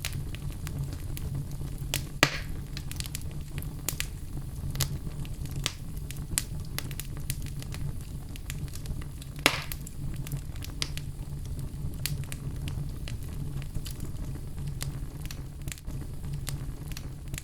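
Fire crackling in a fireplace: a steady low rumble under many sharp irregular crackles, with two louder pops about two and nine seconds in.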